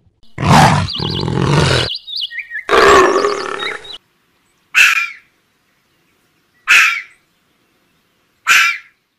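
Animal calls: two long loud calls in the first four seconds, then three short sharp calls about two seconds apart.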